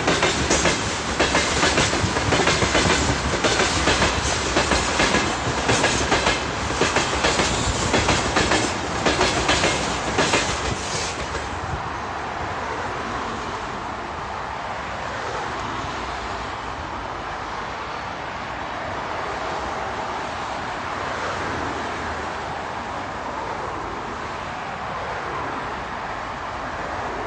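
Freight train wagons rolling past, their wheels clacking rhythmically over the rail joints. About eleven seconds in, the clacking stops and a steady, quieter noise carries on.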